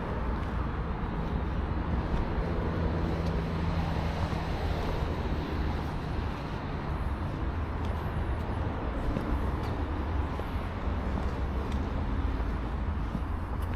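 Steady, low rumble of road traffic heard across an open city park, with no single event standing out.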